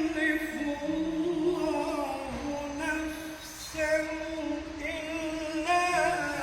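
A man reciting the Quran in melodic chant (tartil), one solo voice holding long drawn-out notes that step between pitches, with short pauses for breath.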